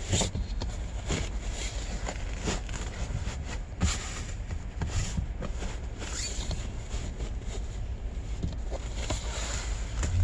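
Rustling, scraping and irregular clicks of a seat cover being worked onto a truck's rear seat cushion, over a steady low hum.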